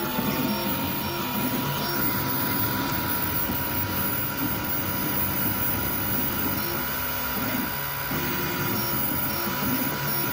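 Tevo Black Widow FDM 3D printer printing, its stepper motors whirring in short low tones that change pitch every fraction of a second over steady cooling-fan noise and a thin high whine.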